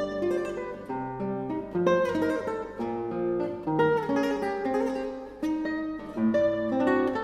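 Solo guitar music, most likely a classical guitar: a melody of plucked notes over chords, each note starting sharply and dying away.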